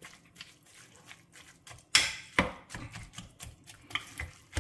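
Metal spoon stirring a thick mixture in an enamel pot: a run of soft scrapes and clinks against the pot, with the loudest knocks about two seconds in.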